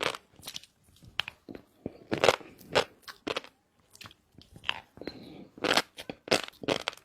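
Close-miked chewing of shrimp and fish roe: wet crunching and popping bites, several a second with short pauses.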